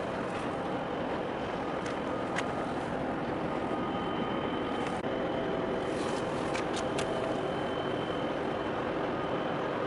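Steady outdoor engine and traffic noise, with a faint click about two seconds in and three quick clicks around seven seconds in.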